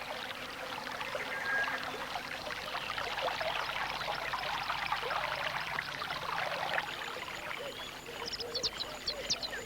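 Steady hiss and babble of running river water, with a few short, high bird chirps near the end.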